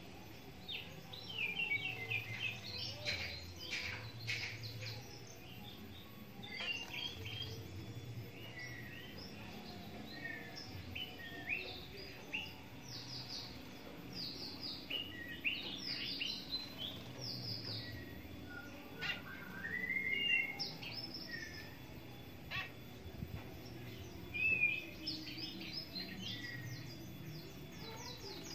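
Birds chirping and calling: repeated quick runs of short high chirps, with a rising whistled note about 20 seconds in, over faint low background noise.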